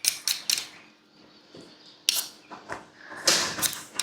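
Short, sharp scraping strokes of a kitchen blade working raw potatoes: three quick strokes near the start, another about two seconds in, and a denser run of strokes a little after three seconds.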